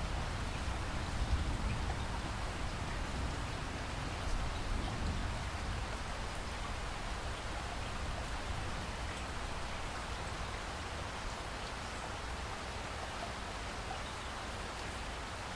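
Steady rain falling, with a low rumble dying away over the first few seconds.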